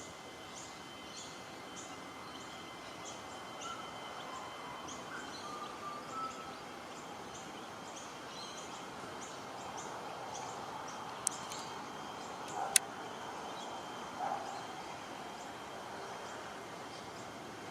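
Birds calling around a tree nest: a run of short, high chirps about twice a second, with a few lower calls mixed in. Two sharp clicks come a little past the middle.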